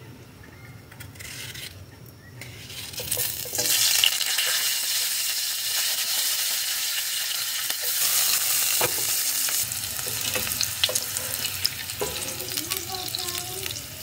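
Green pepper pieces hitting hot oil in a stainless saucepan and sizzling, starting about three seconds in and then holding steady. From about eight seconds in, a plastic slotted spatula clicks and scrapes against the pan as the peppers are stirred.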